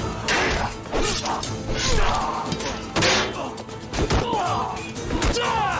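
Sword-fight clashes and blows, sudden metallic strikes and thuds in quick irregular succession, with shouts, over a dramatic music score.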